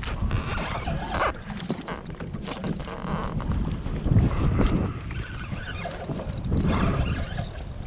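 Wind buffeting the microphone on a kayak on open water, a constant low rumble, with water sloshing and a scattering of short knocks and clicks from the kayak and fishing gear.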